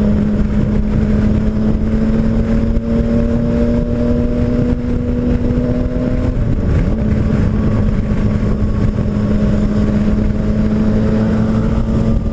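Yamaha MT-09 Tracer's 847 cc three-cylinder engine pulling steadily at highway speed, its note climbing slowly as the bike gains speed, dipping briefly about six and a half seconds in and then rising again. Heavy wind rush on the helmet microphone lies under the engine.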